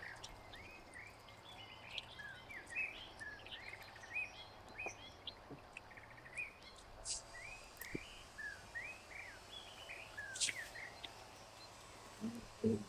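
Small birds chirping repeatedly: short, bending chirps follow one another about twice a second, with a few faint clicks in between. A brief, louder low sound comes near the end.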